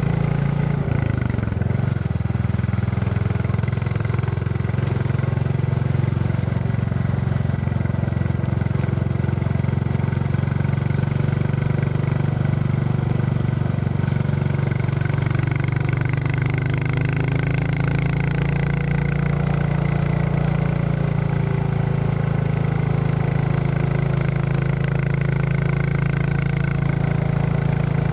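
Royal Enfield Classic 350's single-cylinder engine thumping steadily as the motorcycle rides along, its note shifting slightly about halfway through.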